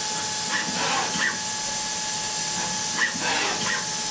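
DATRON M8Cube CNC mill's 3.0 kW high-frequency spindle high-speed milling aluminium: a steady high whine over hiss, with brief swooping changes in pitch a few times as the cutter works.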